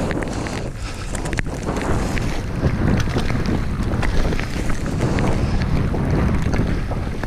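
Strong wind buffeting a GoPro's microphone during a downhill ski run, with skis hissing and scraping over fresh snow in many short strokes.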